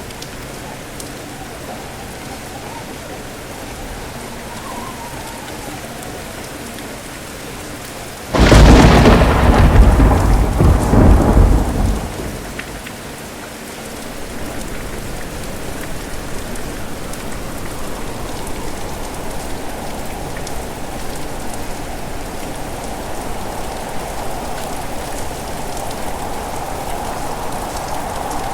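Steady heavy rain with a thunderclap about a third of the way in: a sudden loud crack that rumbles and dies away over a few seconds.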